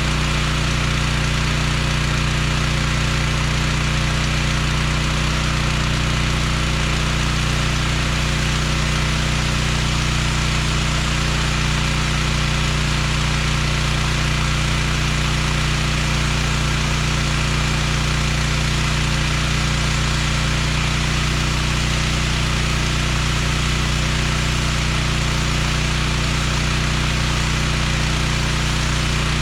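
Pressure washer's engine running at a steady pitch, with a steady hiss over it.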